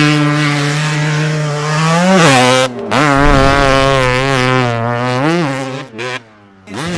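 Dirt bike engine running at high revs, its pitch dipping and climbing back as the throttle is eased and reopened. The sound drops out abruptly about three seconds in and again near the end.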